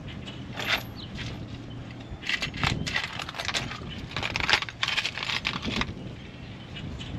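Hand tools and metal suspension parts clinking and clattering, in two busy runs of quick clinks through the middle.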